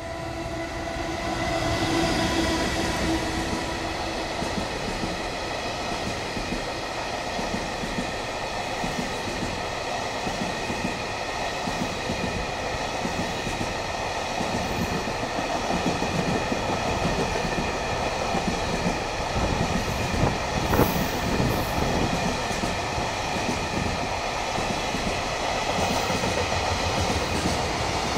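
JR Freight EF210 electric locomotive hauling a container freight train past without stopping. A steady whine comes from the locomotive as it passes in the first few seconds, then the rumble and clickety-clack of the container flatcars' wheels going by.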